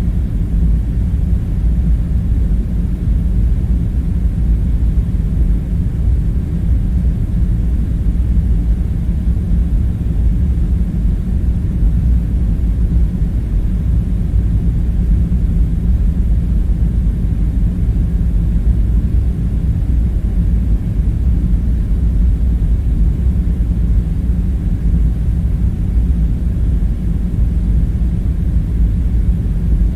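Steady low rumbling drone, even and unbroken, with no distinct knocks or clicks over it: the constant background hum of a room ambience.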